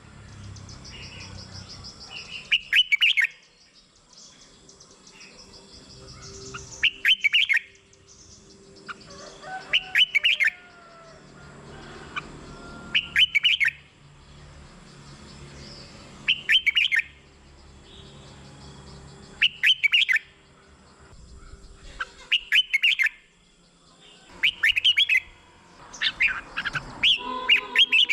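A red-whiskered bulbul singing short, loud, bright phrases, one about every three seconds, with softer chirping in between; near the end the phrases come closer together.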